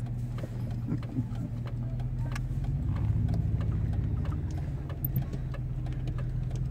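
Car engine running steadily at low speed, heard from inside the cabin, with scattered light ticks and clicks over the hum.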